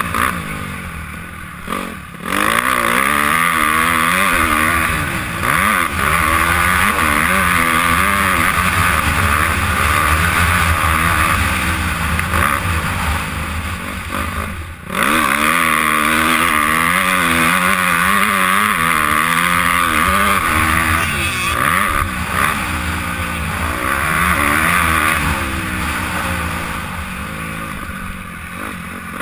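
Honda CRF250R four-stroke single-cylinder motocross engine revving hard and rising and falling in pitch through the gears, heard from a helmet-mounted camera. The throttle shuts off briefly twice, about two seconds in and again about halfway through.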